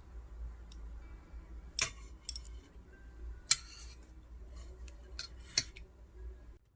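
A few sharp clicks and clinks of kitchenware being handled over a low steady hum, the loudest about three and a half seconds in.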